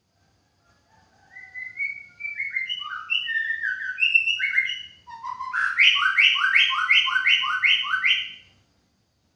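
White-rumped shama (murai batu) singing: a varied phrase of clear whistled notes, some sliding down in pitch, that ends in a fast run of about eight repeated notes, roughly three a second.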